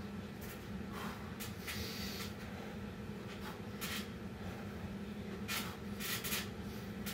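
Heavy breathing from a person exerting himself through pull-ups after a burpee set: a string of short, sharp breaths, with a steady low hum underneath.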